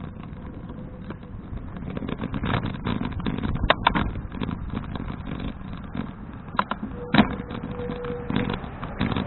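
Folding bicycle being ridden, heard from a bike-mounted action camera: a steady rumble of wind and tyres, with sharp rattling knocks as the bike jolts over bumps, a pair near the middle and another pair a little later. A short steady whine sounds near the end.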